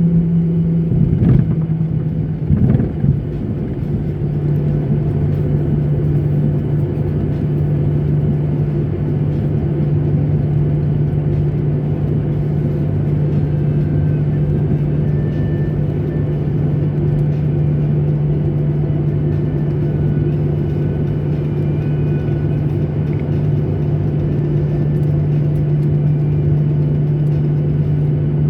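Steady jet airliner cabin noise from a window seat: the engines' even rumble with a constant low hum. A few short knocks come in the first three seconds, and the hum drops a little in pitch about three seconds in.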